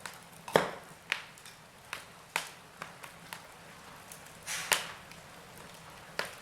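Burning logs in a fireplace crackling: sharp, irregular pops and snaps, about seven in all, the loudest about half a second in, over a faint steady hiss.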